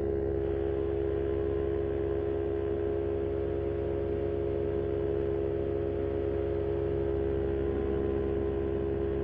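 Moster 185 two-stroke paramotor engine and propeller running steadily at cruise power in flight, a constant drone with a strong steady hum.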